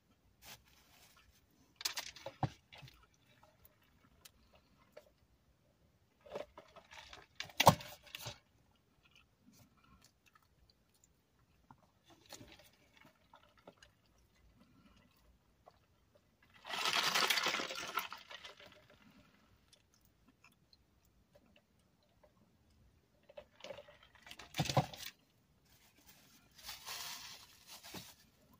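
Close-up eating sounds: crunching and chewing in several short bouts separated by near quiet, with one longer, louder crackly crunch midway.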